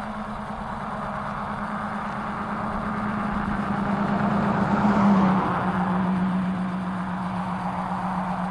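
A car driving past on the road: its tyre and engine noise grows louder, passes about five seconds in with a slight drop in pitch, then fades.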